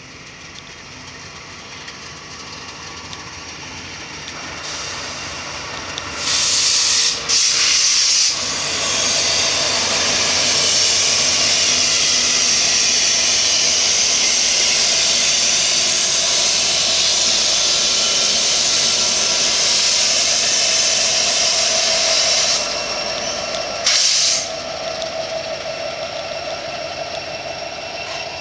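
BNSF coal train's diesel locomotives approaching and passing, building to a loud, steady rush that lasts about fourteen seconds. Two short horn blasts sound just before the rush and another comes near the end.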